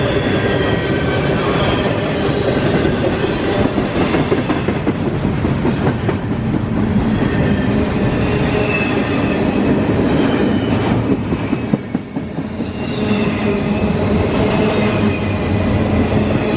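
A train rolling past on the rails: a steady, loud rumble of wheels on track, with occasional clicks and thin high-pitched tones over it.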